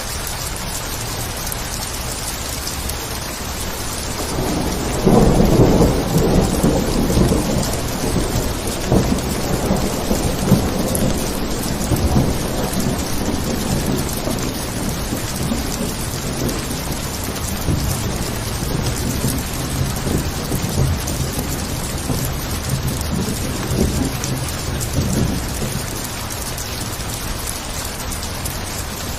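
Steady rain falling, with a long roll of thunder that breaks in about five seconds in, is loudest at first, and rumbles on with crackles as it fades over some twenty seconds.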